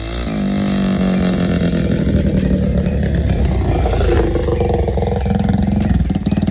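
Quad (ATV) engine running and revving, its pitch rising and falling, and growing louder over the first second.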